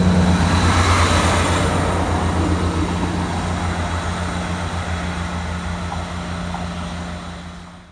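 Two-car Class 158 diesel multiple unit pulling away, its diesel engine giving a steady low throb with a fast even pulse that fades gradually as the train moves off.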